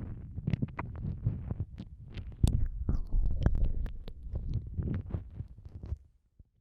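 Close-up wet mouth sounds of ASMR ear eating: lips and tongue smacking and clicking right at the microphone over a muffled low thudding. They break off briefly near the end.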